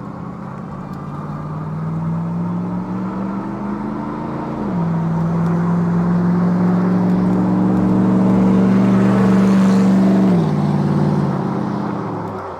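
A car's engine accelerating close by, its pitch climbing and then dropping suddenly twice, about five and ten seconds in, as it shifts up a gear, then fading away.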